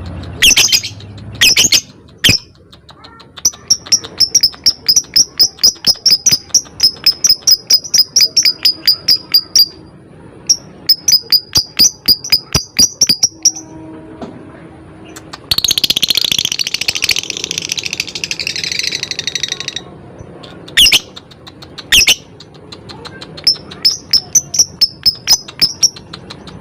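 Lovebird calling: long runs of sharp, high chirps repeated about five a second. Around the middle comes a dense, harsh chattering trill lasting about four seconds, then a few loud single shrieks and another run of chirps.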